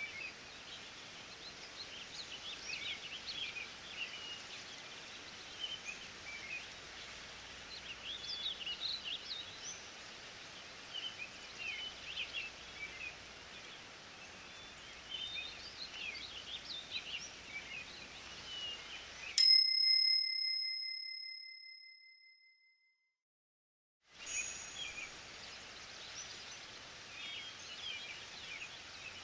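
Forest ambience of many small birds chirping over a steady hiss. About two-thirds of the way through, a single timer bell rings and fades out, marking the end of an interval. The ambience drops to silence for about a second, then the birdsong starts again.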